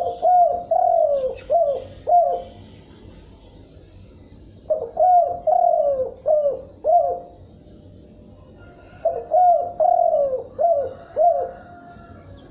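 Spotted dove cooing: three phrases, each about two seconds long and made of about five short falling coos, coming every four to five seconds.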